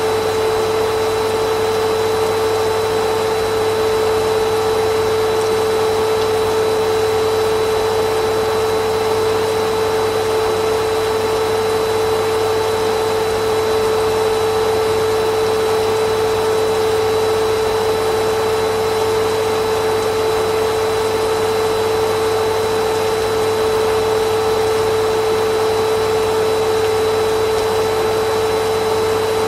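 Vacuum cleaner motor running steadily, a constant rushing noise with a strong, unchanging hum under it.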